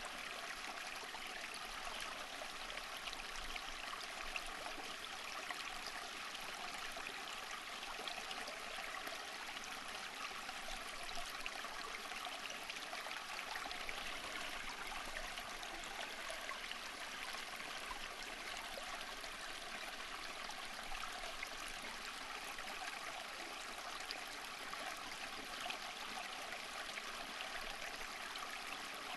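Water flowing steadily in a stream, a continuous splashing and trickling hiss with many small bright droplet sounds and no change in level.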